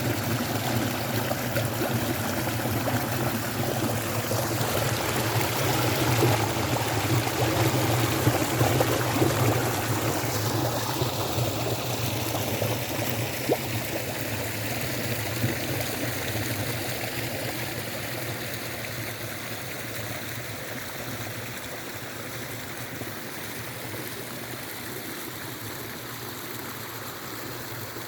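A small brook flowing and trickling steadily. It is louder in the first part and grows gradually quieter over the second half.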